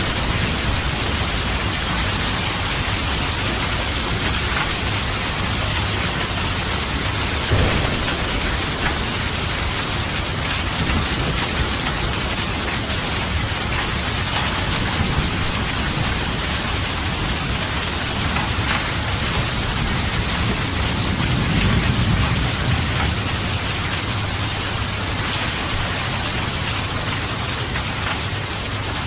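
Steady heavy rain hissing down, with a short sharp crack about eight seconds in and a low rumble of thunder swelling a little past two-thirds of the way through.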